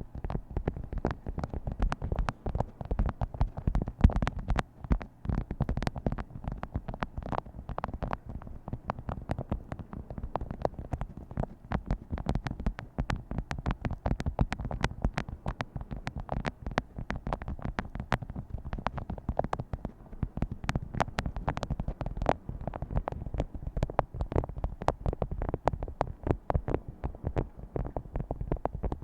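Fingers tapping quickly and unevenly on objects, many short taps a second, going on without a pause.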